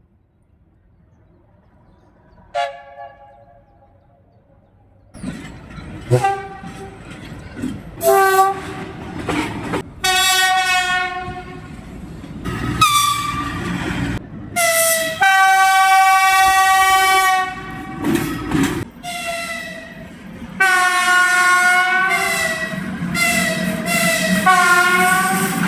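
Russian locomotive horn (typhon) sounding a long series of blasts, short and long, some bending in pitch, over the rumble of a passing train. A faint short toot comes first; the longest blast is past the middle.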